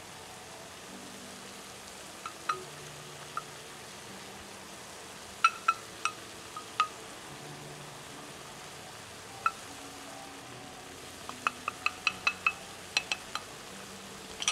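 Stir-fried octopus and vegetables sizzling steadily on a hot tabletop griddle pan, with sharp ringing clinks of utensils against the pan: a few around five to seven seconds in and a quick run of them near the end.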